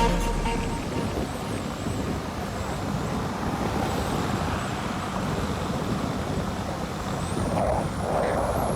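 Steady rushing wind and road noise from riding a motorcycle, with no clear engine note standing out.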